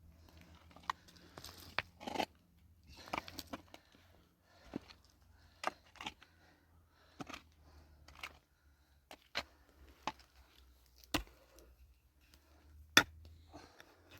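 Irregular sharp clicks and knocks, about a dozen of them, mixed with short scraping and crinkling sounds, as of hands working with objects.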